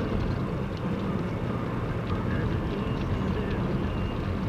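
Steady engine and road rumble heard from inside a moving vehicle's cab.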